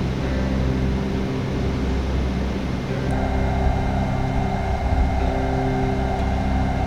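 Car interior noise while driving: a steady engine and road hum, with a louder hiss joining about three seconds in.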